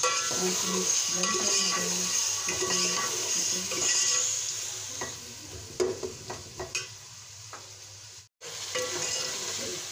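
Chopped tomatoes sizzling in hot oil in an aluminium pot while a steel ladle stirs them. The sizzle is loudest for the first few seconds, then eases, with a few sharp clinks of the ladle against the pot. The sound cuts out for an instant near the end.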